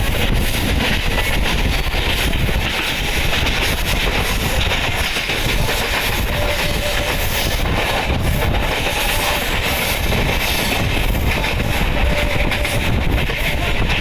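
Paschim Express passenger train running along the track: a steady, loud rumble of wheels on rails.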